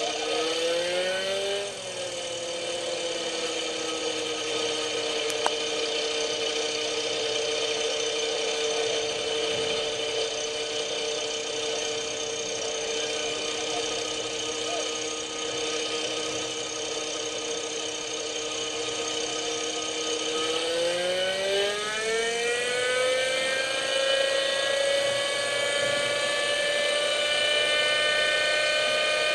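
Small glow-fuel engine of a Hirobo Shuttle RC helicopter running at a steady whine, with a brief rise in pitch near the start; about 21 seconds in it speeds up in a smooth rising whine and holds at the higher pitch.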